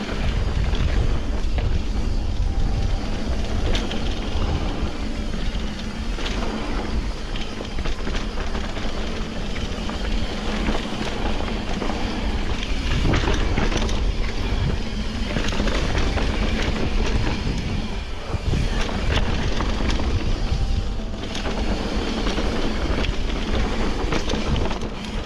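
Wind buffeting the microphone and road rumble while riding a bike at speed: a loud, steady, unbroken rush with scattered small rattles and clicks.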